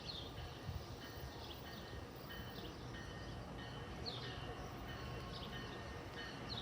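Bird chirping: short, faint descending notes repeated every second or so, over a low steady rumble.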